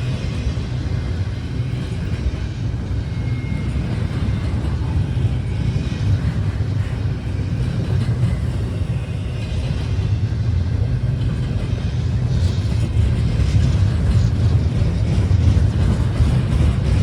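Steady low vehicle rumble, growing slightly louder in the second half.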